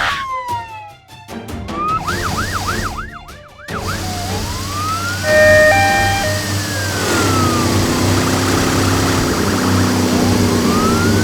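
Cartoon police siren sound effects over background music with a steady beat. A quick warbling yelp comes about two seconds in, then slow rising-and-falling wails, with a low held tone joining from about seven seconds in.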